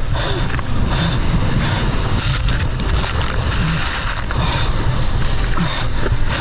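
Loud rushing noise of wind and water with a heavy low rumble, gusting unevenly.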